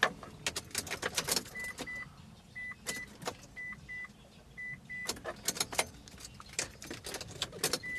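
A car's warning chime beeping faintly in pairs, about one pair a second, over a run of sharp, irregular clicks and knocks from handling inside the car.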